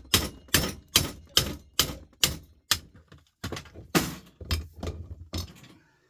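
Repeated hammer blows on metal, about two to three strikes a second, with a short pause about three seconds in; the blows stop shortly before the end.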